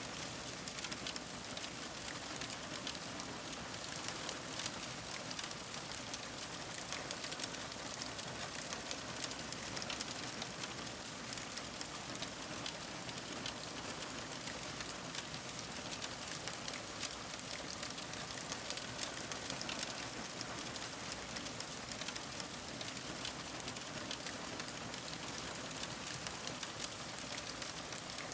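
Fire crackling steadily: a dense run of small pops and snaps over a soft hiss.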